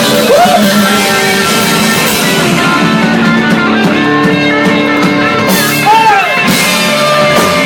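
Live rock band playing loud, with electric guitars and voices singing over it.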